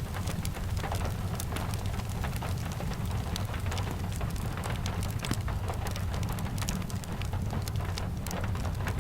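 Steady rain with a deep low rumble beneath it, mixed with many small sharp crackles of a wood fire scattered throughout.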